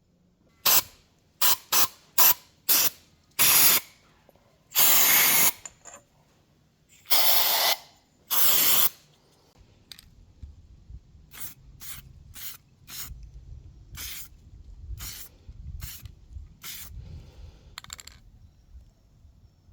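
Short bursts of spraying: six quick ones, then three longer ones of about a second each. These are followed by a run of sharp, separate clicks and light knocks.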